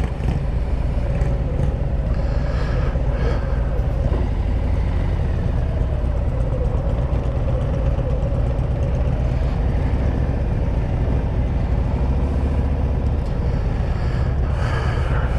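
Harley-Davidson Road Glide's V-twin engine running steadily under way, with a constant rush of wind and road noise.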